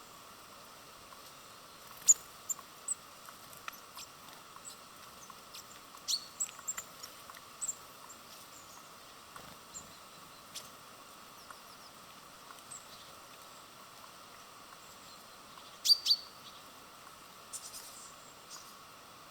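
Small birds at a feeder: scattered short, high chirps with a few sharp clicks, the loudest about two seconds in and again near sixteen seconds, over a faint steady background hiss.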